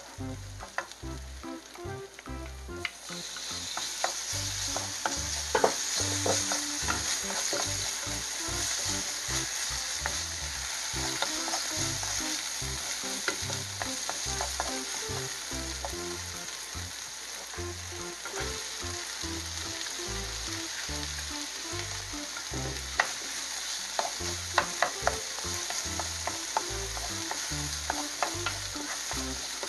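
Diced pork tenderloin with doenjang, garlic and green onion sizzling in a nonstick frying pan while a wooden spatula stirs it, with scattered light clicks of the spatula against the pan. The sizzle grows louder about three seconds in, then holds steady.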